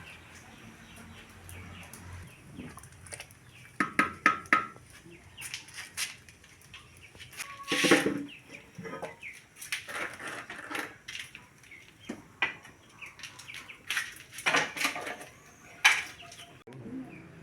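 Chickens clucking, with a few brief calls and irregular knocks and clatter.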